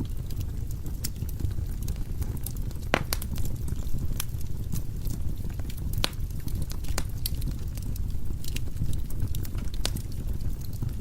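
Wood logs burning in a fireplace: a steady low rumble of the fire with irregular sharp crackles and pops, the strongest about three and six seconds in.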